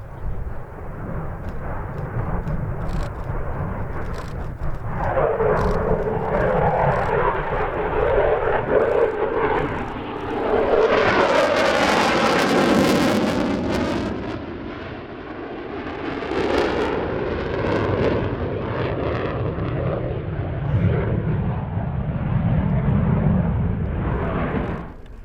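Twin-engine Eurofighter Typhoon jet fighter flying a display with its engines running loud. The sound swells as the jet passes close, loudest about halfway through, then eases back and drops off suddenly near the end.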